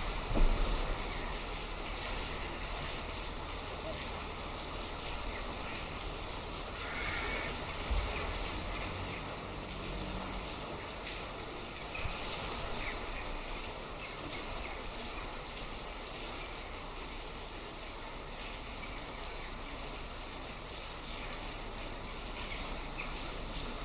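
Steady rain falling, an even hiss of drops with a few louder single drop knocks.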